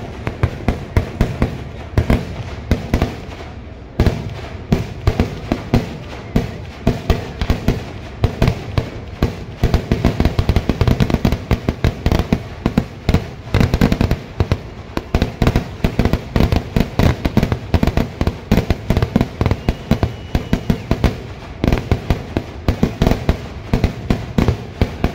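Vedikettu, a Kerala festival fireworks barrage: firecrackers going off in a dense, rapid string of sharp bangs, many each second. A heavier burst comes about four seconds in, and the bangs are thickest midway through.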